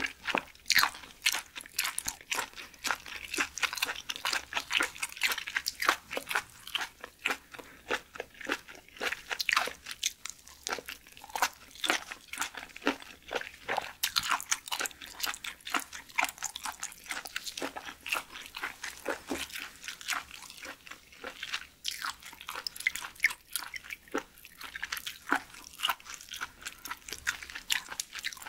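Close-miked chewing of raw seafood: a steady stream of crisp, irregular crunches and wet clicks from firm, crunchy flesh being bitten and chewed.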